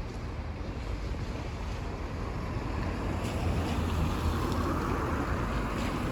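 Wind buffeting the microphone over a steady low rumble, growing louder through the second half.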